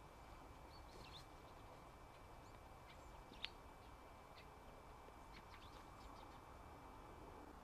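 Faint, scattered short chirps of small birds over a quiet outdoor background, with one louder chirp about three and a half seconds in.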